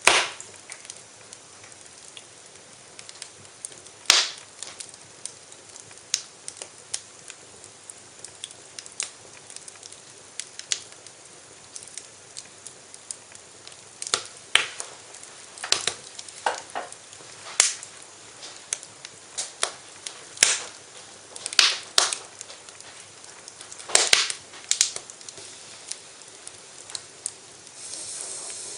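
Wood fire crackling in a fireplace: irregular sharp pops and snaps over a soft steady hiss. The pops come thicker and louder in the second half.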